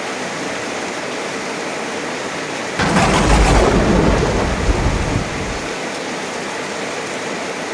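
Heavy rain falling steadily. About three seconds in, a close thunderclap cracks suddenly and rumbles deeply for about three seconds before fading back under the rain.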